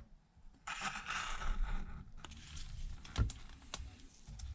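Work noises at the edge of an iPad screen as the glued-down display is being pried free: a scratchy scraping sound lasting about a second, then a few light clicks and one sharper tap.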